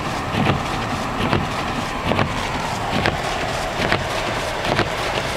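Steady road and engine noise inside a car's cabin, with a short regular knock a little more than once a second from the windshield wipers sweeping through snow.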